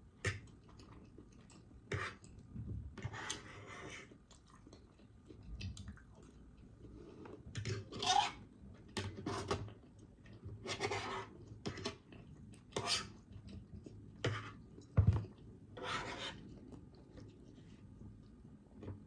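Utensil scraping and clicking against a plate in irregular strokes, mixed with chewing; the sharpest click comes near the end.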